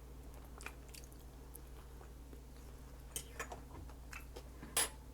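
A person chewing and biting into a ground beef taco, with scattered short wet clicks, a cluster of them about three seconds in and the sharpest one near the end.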